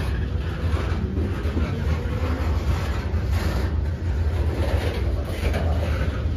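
Freight train cars rolling past close by, boxcars and loaded flatcars, their steel wheels making a steady rumble on the rails.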